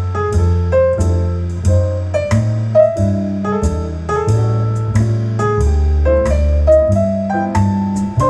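Jazzy piano music with chords over a deep, held bass line, played back through Bowers & Wilkins 803 D4 loudspeakers driven by a McIntosh integrated amplifier.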